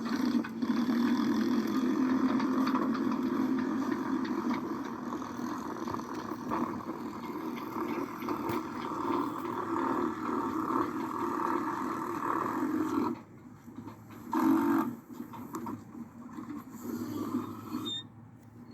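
Wind buffeting the camera microphone: a loud, gusting rumble that drops off suddenly about thirteen seconds in, with one more brief gust shortly after.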